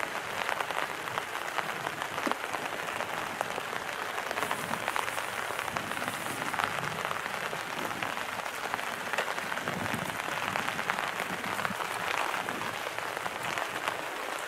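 Bean sprouts and tomato sizzling as they stir-fry in a hot pan, a steady dense crackle.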